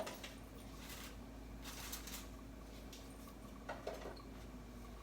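Faint, intermittent soft scraping of a spoon stirring thickening chocolate pudding in a saucepan, over a steady low hum.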